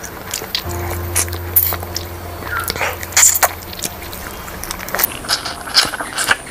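Close-up eating sounds: a person chewing fried chicken eaten by hand, with wet lip smacks and sucking clicks as meat is pulled off the bone and fingers are licked. A low steady hum sounds underneath from about a second in until about four seconds in.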